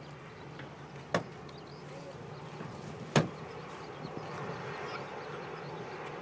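Steady low drone of the Boeing 787's Rolls-Royce Trent 1000 engines at low taxi power, with wind noise. Two sharp clicks come about a second and three seconds in.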